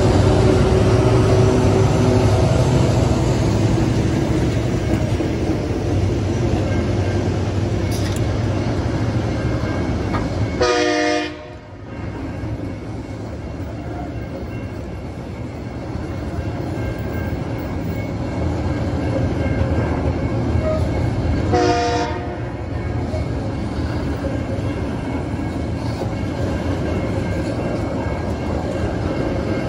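Freight train passing close by: the last diesel locomotive's engine drone fades in the first few seconds, then the wagons run past with a steady rumble and clatter over the rails. Twice, about eleven seconds apart, a brief high tone rings over the rumble.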